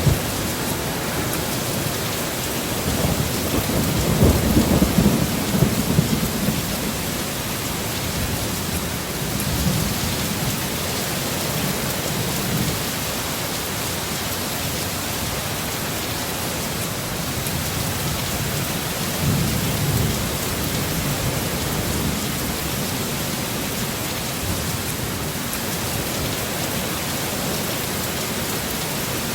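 Heavy rain falling steadily in a thunderstorm, with low rumbles of thunder swelling a few seconds in and again about two-thirds of the way through.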